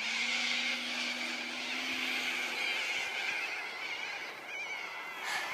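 Radio-controlled P-40N warbird in flight, a steady low engine drone from its onboard electronic sound system that stops about two and a half seconds in, heard under a constant high screeching from a flock of corellas and cockatoos. A few wavering bird calls stand out near the end.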